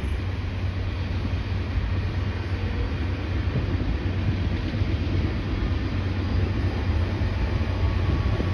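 CP coal train rolling past: a steady low rumble of coal cars' wheels on the rails.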